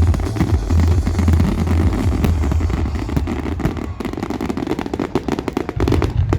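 Fireworks display finale: a dense, continuous barrage of bangs and crackles with heavy low booms, thinning after about four seconds into separate sharp crackles.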